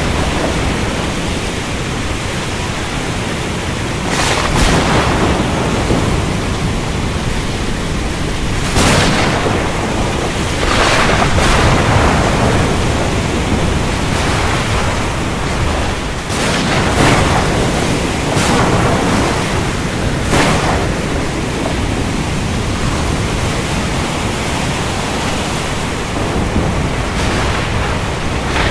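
Thunderstorm with steady heavy rain and a deep constant rumble, and several louder crashes of thunder every few seconds.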